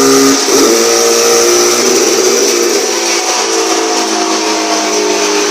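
Turbocharged Honda CBR250RR engine held at high revs with a high-pitched whine. The revs dip briefly about half a second in, pick back up, then ease slowly downward. It runs smoothly with no misfires.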